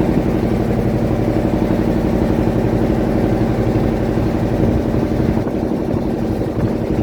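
A fishing boat's engine running steadily at an even speed, with a fast, regular putter.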